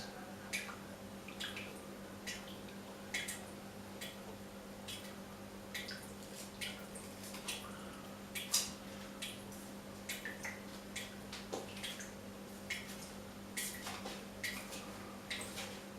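Water dripping from a garden tap: single drops falling at uneven intervals, about one or two a second, each a short plink, over a steady low hum.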